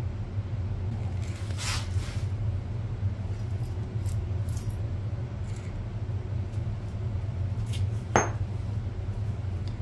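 Metal shock absorber parts clinking and scraping as they are handled, with one sharp metallic clink about eight seconds in, over a steady low hum.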